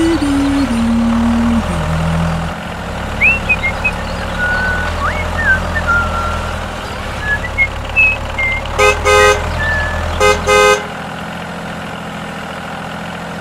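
A motor running with a steady low hum that cuts off near the end, while a vehicle horn sounds twice in quick double toots.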